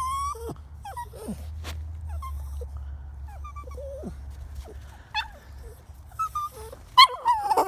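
Bichon Frise dog whimpering and whining in short, high, wavering cries, which grow louder and come more often near the end.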